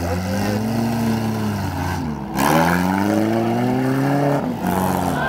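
Demolition derby cars' engines revving hard, their pitch rising and falling in repeated sweeps over the steady drone of other engines, with a louder rev-up about two seconds in.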